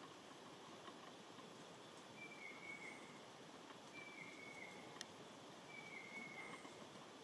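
A bird gives three short, slightly falling whistled calls about two seconds apart, faint over a low hiss of natural ambience, with a single small click about five seconds in.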